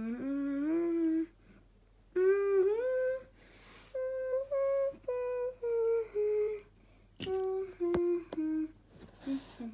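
A child's voice humming a wordless tune: held notes that slide up and down in short phrases, with a descending run of separate notes in the middle. Two sharp clicks come a little after halfway.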